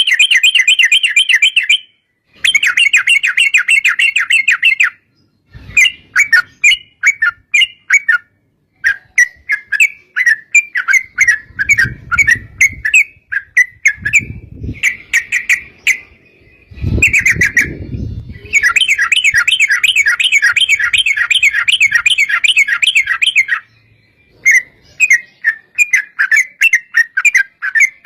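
Yellow-vented bulbul (trucuk) calling in long, fast chattering trills broken by runs of separate quick notes, with a few low rumbles in the middle.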